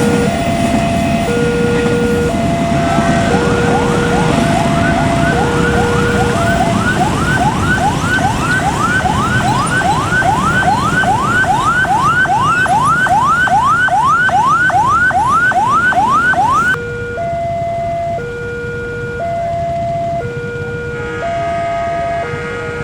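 Railway level-crossing warning alarm sounding: a steady alternating two-tone signal, joined for much of the time by a fast rising siren whoop, about two a second. The whoop stops abruptly near the end, along with much of a loud steady noise of rain and a passing train beneath.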